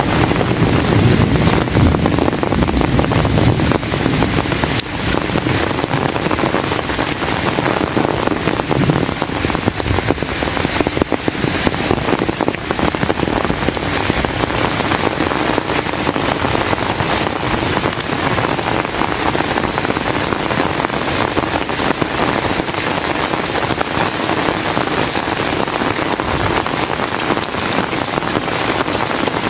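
Heavy rain pouring steadily in a dense, even hiss, with a low rumble of wind on the microphone in the first few seconds.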